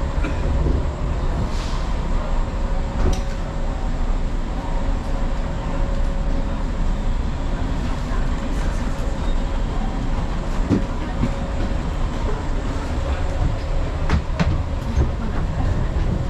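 Running noise of a 381 series tilting electric train at speed, heard inside the car by the door: a steady low rumble with a steady hum, and a few sharp clicks near the end.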